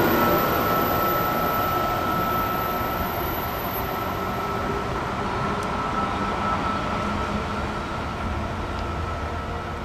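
A passing train's rumble and rail noise, fading slowly as it moves away, with a steady thin high tone running through it.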